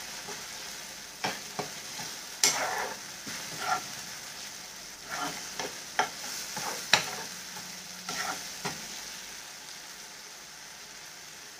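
Green peas and masala frying in butter in a nonstick pan over a raised gas flame, sizzling steadily, while a spatula stirs and scrapes against the pan with sharp clacks. The stirring stops near the end and only the sizzle remains.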